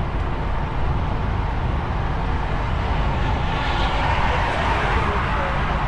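DAF XF truck driving on the road: steady low diesel engine rumble with tyre and road noise, swelling briefly about four seconds in.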